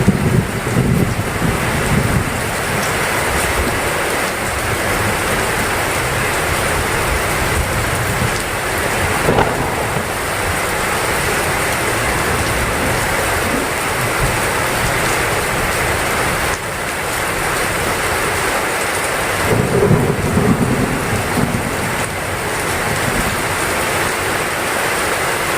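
Heavy rain falling steadily, with low rumbles of thunder near the start and again about three-quarters of the way through.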